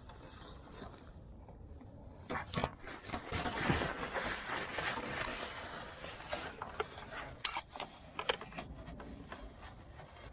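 Irregular clicks and knocks of hand tools and parts being handled during work on a car, with a denser rustling, scraping noise from about three to six seconds in.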